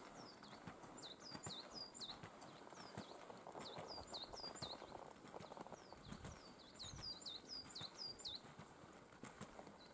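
A small bird calling from the pines: three quick runs of high, falling chirps, over the faint, soft crunch of footsteps in snow.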